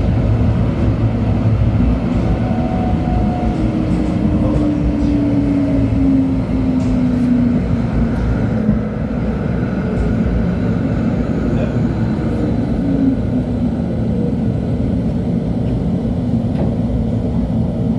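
Running sound of an LHB TW2000 light-rail car heard from on board: a steady rumble of wheels on rails. Over it a drive whine falls in pitch from about three seconds in, and again more faintly past the middle, as the car slows.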